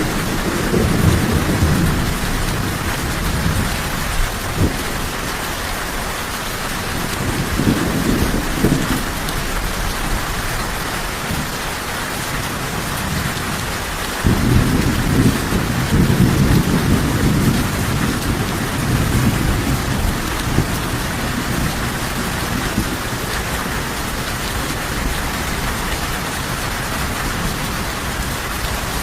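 Steady heavy rain falling with low rolls of thunder rumbling beneath it, one near the start, a shorter one about eight seconds in and a longer one from about halfway.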